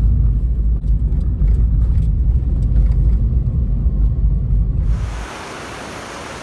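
Low, steady road rumble inside a moving car's cabin, with a few light clicks. About five seconds in it cuts off abruptly and gives way to the even rush of a mountain stream.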